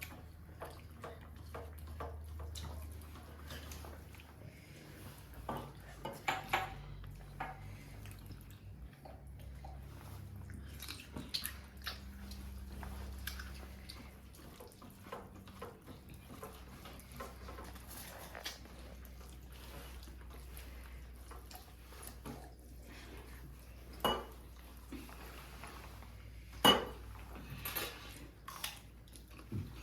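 Dishes and cutlery clinking and scraping: many light scattered clicks, with a few sharper clinks, the loudest near the end.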